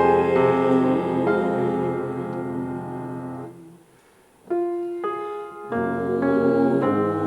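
Piano playing: a held chord slowly dies away, there is a short pause, then single notes come in one after another and build back into full chords.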